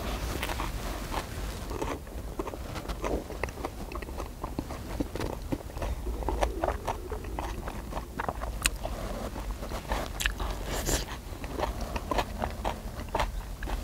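Close-miked chewing of a mouthful of spicy marinated pork, with many short irregular clicks, and chopsticks touching the cast-iron lid pan as more is picked up.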